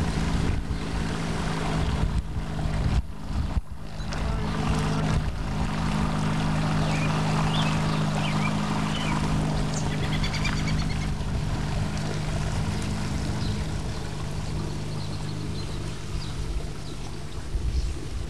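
A small motor running steadily, its hum growing stronger about five seconds in and easing off again later, over water noise.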